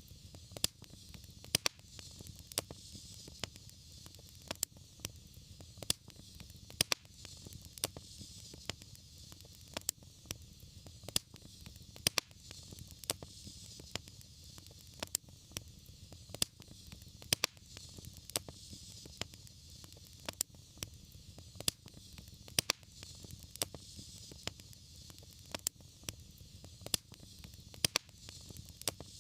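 Wood fire crackling, with irregular sharp pops about one or two a second over a steady low rumble and a soft hiss.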